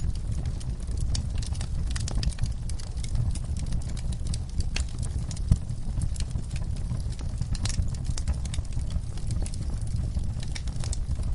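Wood fire in a fireplace crackling, with frequent small pops and snaps over a steady low rumble of burning; one sharper pop about five and a half seconds in.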